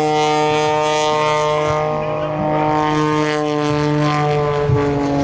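CAP 232 aerobatic plane's 330-horsepower piston engine and propeller running at high power in flight. It gives a steady droning note that dips slightly in pitch near the end.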